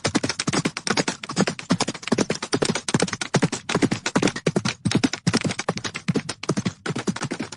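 Hooves of galloping horses: a rapid, continuous run of hoofbeats striking the ground.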